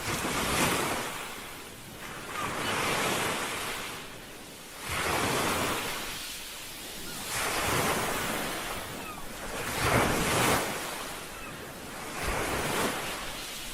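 Ocean waves breaking and washing on a shore, the rush swelling and falling back about every two to three seconds.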